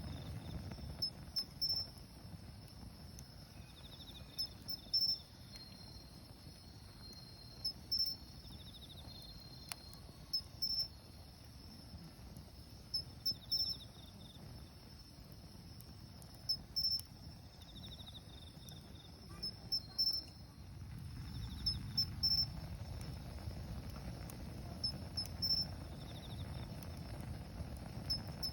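Autumn insects such as crickets chirping in short, evenly repeated high pulses, with a second, lower trill coming and going. Under them a wood fire crackles faintly in a small steel fire stand, its low rush swelling again in the last third.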